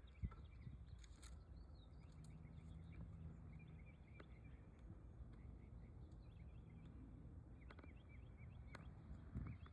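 Near silence: faint bird chirps scattered throughout over a low steady hum, with a few soft clicks.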